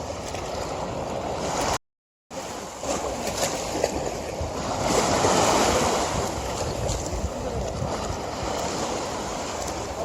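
River water flowing, a steady rushing that swells a little louder about halfway through. The sound cuts out completely for about half a second near two seconds in.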